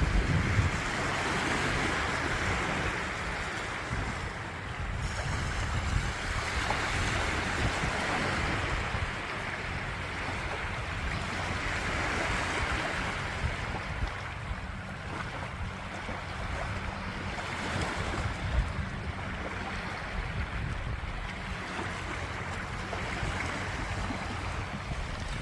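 Surf washing in, swelling and easing every few seconds, with wind rumbling on the microphone.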